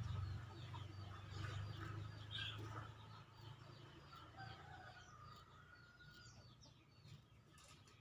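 Small birds chirping over and over in the background, with a low hum that fades away over the first few seconds.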